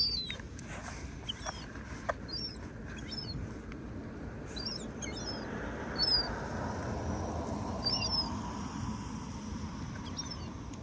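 Young gulls giving thin, high whistled begging calls: about a dozen short calls, each bending in pitch, spaced irregularly, over a steady low background rumble.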